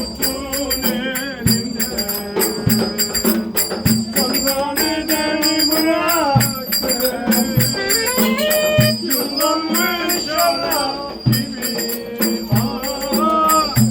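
Turkish folk dance music (oyun havası) played for dancing: a drum strikes a slow, even beat about every second and a bit, under steady jingling percussion and a bending, ornamented melody line.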